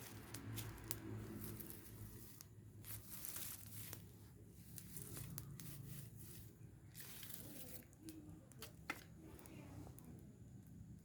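Faint crackling, crinkling and rustling from a burning rubbish pile, with scattered sharp snaps.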